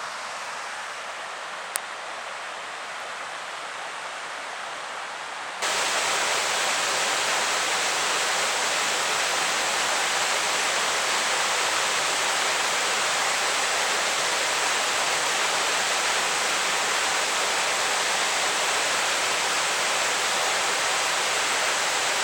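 Steady rushing of a waterfall in spate, swollen by heavy rain. It jumps suddenly much louder about five seconds in and stays steady and full after that.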